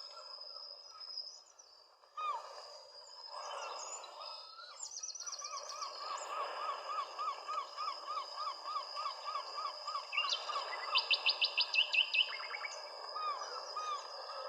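Several wild birds calling over a steady background hum. One bird repeats a short call two or three times a second for several seconds, and a loud, rapid high trill comes about eleven seconds in. A thin, steady high-pitched tone runs underneath.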